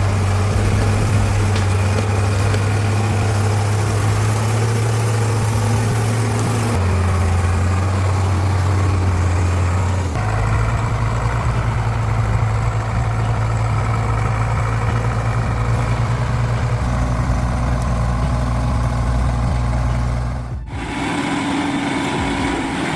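Heavy diesel truck engines running steadily with a low, even note. The note changes abruptly several times, and near the end it dips briefly before a different, higher engine note takes over.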